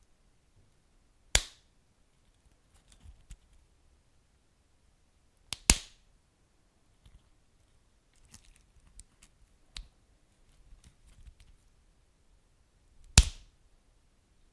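Wood fire crackling: three loud sharp pops, about a second and a half in, near six seconds and near the end, with scattered faint ticks and crackles between them over a soft low rumble.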